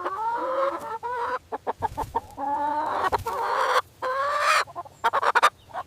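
Domestic chicken calling: a run of short clucks and longer drawn-out calls, with brief breaks between them.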